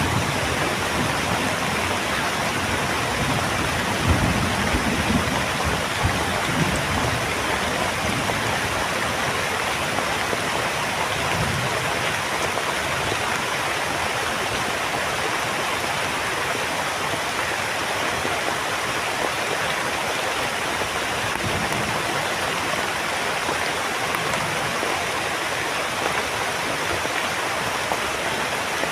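Heavy rain falling steadily, with low rumbles of thunder swelling now and then, strongest in the first few seconds.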